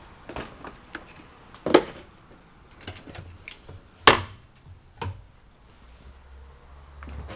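A run of irregular clicks and knocks from hands working a Privileg 370 S washing machine, two of them sharper and louder than the rest, with a faint low hum near the end.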